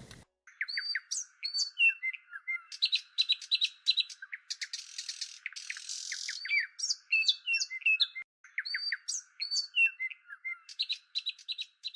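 Songbirds chirping and whistling: many quick rising and falling notes in rapid runs, with a brief pause a little past the middle.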